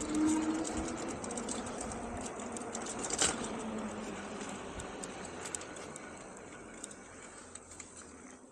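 Engwe Engine Pro e-bike riding along: a steady rush of wind and tyre noise with a faint whine from its 750 W hub motor in the first second, the whole sound fading gradually, and a single sharp click about three seconds in.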